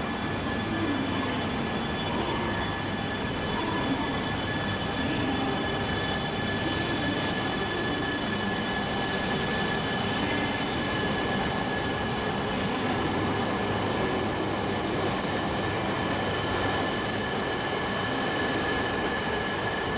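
Coupled E2 and E3 Shinkansen train pulling out at low speed, its E3 cars rolling past with an even running rumble and a steady high whine.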